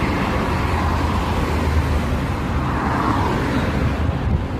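LiAZ 5292.65 city bus heard from inside the cabin: its engine hums steadily under road and cabin noise, with a brief swell about three seconds in.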